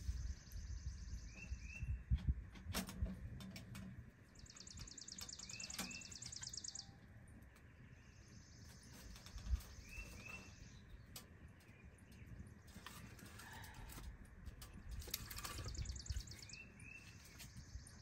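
Small songbirds singing: a high, rapid trill of about two seconds repeated every few seconds, with short paired chirps in between. Under it a low rumble and a few knocks, loudest about two seconds in and near the middle.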